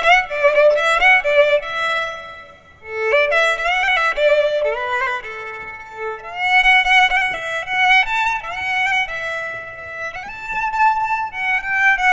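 Solo violin playing a slow melody, sliding between held notes, with a brief pause about three seconds in.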